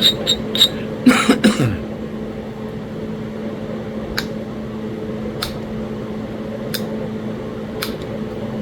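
Small sharp clicks of stone and knapping tool: a quick run of clicks at the start, then single ticks every second or so, over a steady fan hum. A short cough about a second in.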